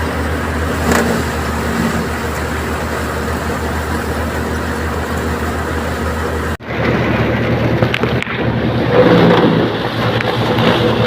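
Tractor engine running steadily for paddy threshing. About six and a half seconds in the sound breaks off sharply, and a steady engine sound with a higher hum takes over.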